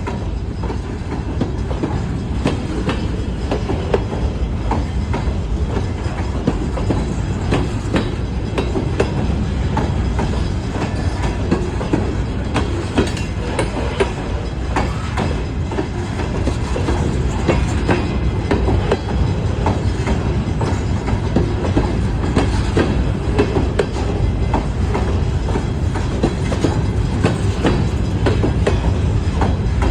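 Freight cars of a long grain train rolling slowly past, wheels clicking and clacking over the rail joints above a steady low rumble. The train is held to about 10 mph by a speed restriction.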